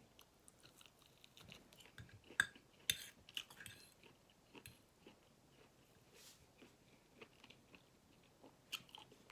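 Faint, scattered chewing and mouth sounds of a person eating close to the microphone, with a few sharper clicks now and then.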